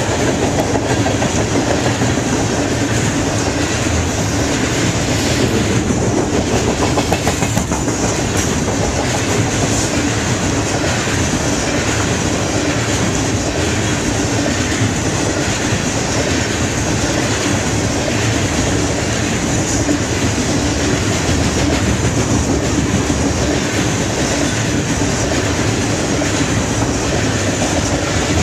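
Freight hopper cars rolling past at close range: a steady rumble and rattle of steel wheels on rail, with wheels clicking over rail joints.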